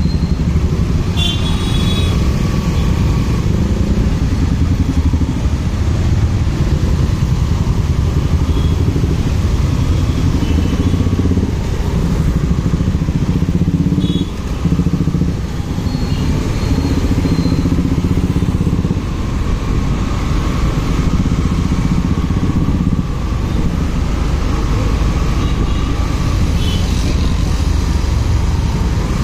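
Motorcycle under way on the road: engine and road noise running steadily, with a brief dip in level about halfway through. A few short high tones sound near the start and near the end.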